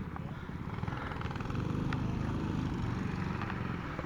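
A small engine running steadily, its firing pulses growing a little louder in the middle.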